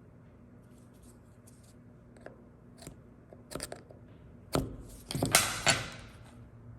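Metal parts being handled on a shop bench: a few light clicks and knocks, then a short, louder scraping rasp, over a steady low electrical hum.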